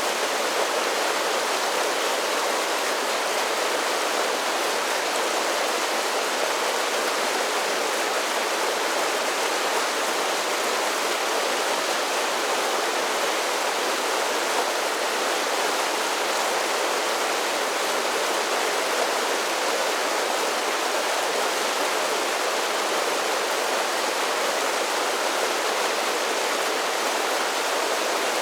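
Mountain creek spilling down a series of small waterfalls: a steady rushing splash, bright and hissy, with little deep rumble.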